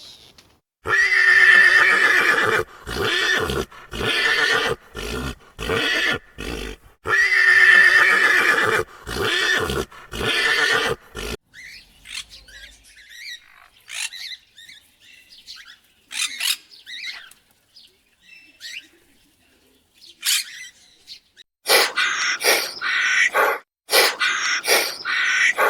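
A horse-family animal calling loudly in two bouts, each a long drawn-out call followed by a run of shorter pulsed ones. It falls quiet for several seconds, and near the end a different run of short, sharp, loud sounds begins.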